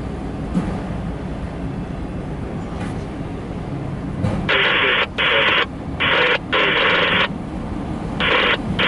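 A steady low rumble from the passing freight train. From about four and a half seconds in, a railroad scanner radio gives a string of short, harsh bursts of static-like noise that cut on and off abruptly, about six times.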